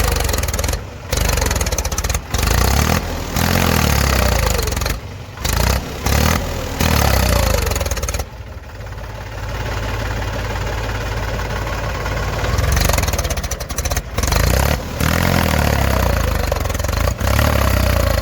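Diesel engine of heavy farm and earthmoving machinery running under load with a deep rumble. The sound drops out abruptly several times for a fraction of a second and is softer for a few seconds in the middle.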